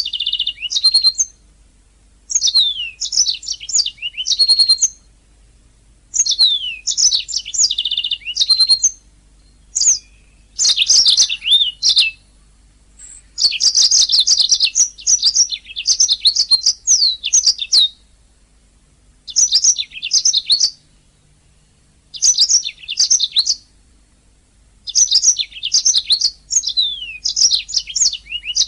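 Domestic canary singing: fast, varied phrases of rapid trills and quick downward-sweeping high notes, each phrase a second or two long, with short pauses between them.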